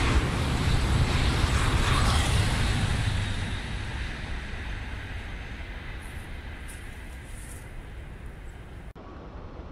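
Low rumble of a passing train, loudest for the first three seconds and then slowly fading away as it recedes. The sound cuts off abruptly near the end.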